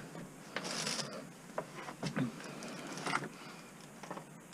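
Faint, scattered rustles, scrapes and clicks of scrap items being moved and handled: a short rustle about a second in, then a few separate light clicks and knocks.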